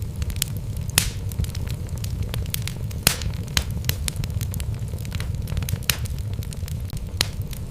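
Wood fire burning in a fireplace: a steady low rumble of flames under frequent, irregular sharp crackles and pops from the burning logs, a few of them louder, about one second and three seconds in.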